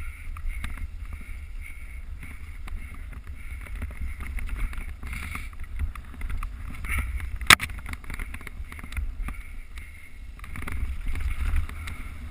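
Wind rumbling on the GoPro's microphone while riding a mountain bike on a trail, with scattered clicks and knocks from the bike over rough ground, and one sharp knock about seven and a half seconds in.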